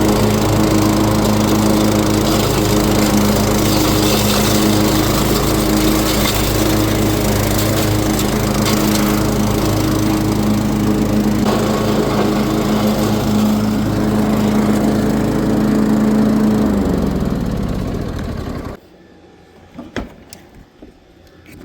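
Cub Cadet XT1 riding lawn mower running steadily. About 17 seconds in, its engine note sags and winds down over a couple of seconds, then the running stops abruptly. A few light clicks follow.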